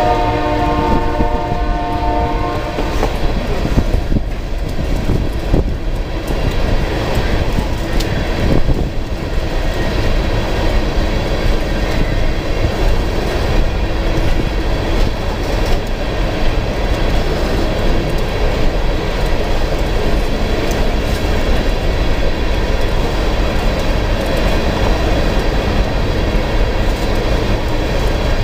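A freight train of coal hopper cars rolls steadily past, its wheels clacking over the rail joints. A locomotive horn sounds a chord at the start and stops about three seconds in.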